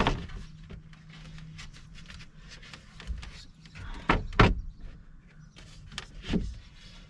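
Knocks and thumps of a wooden panel being handled and set against a cabinet frame, with light scuffing between. A knock comes at the start, two sharper ones land close together about four seconds in, and a last one comes a little after six seconds.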